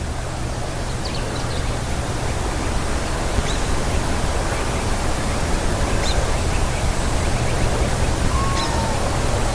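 Steady loud rushing noise, with faint short, sharp bird calls a few seconds apart and a brief lower call near the end.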